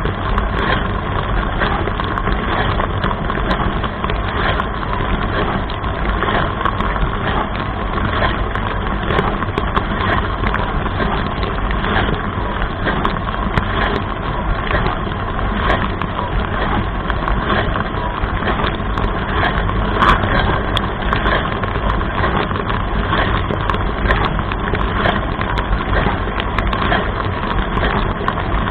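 Dishwasher running mid-wash, heard from inside the tub: a steady pump drone with water from the spray arms splashing against the inside, and many small sharp ticks of water hitting.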